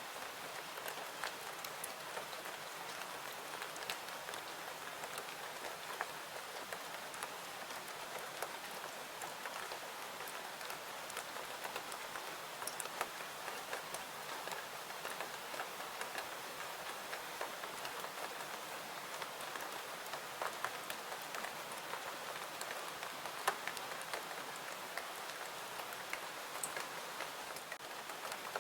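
Steady rain falling: an even hiss with scattered sharp ticks throughout.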